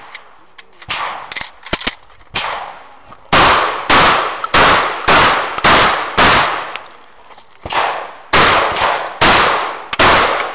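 Shotgun fired in rapid strings during a practical shooting stage. A few spaced shots come first, then six shots at about two a second, a short pause, and four more, each with an echoing tail.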